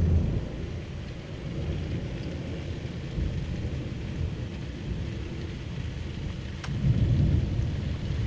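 Rain falling steadily with low rolls of thunder, one rumble swelling about seven seconds in.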